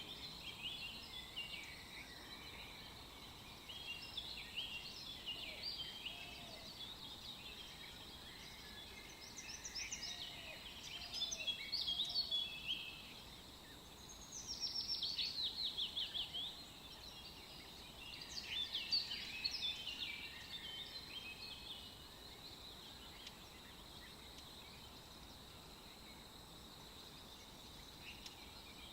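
Small birds chirping and singing in many short, quick calls, with a fast run of falling notes about fifteen seconds in, over a faint steady hiss.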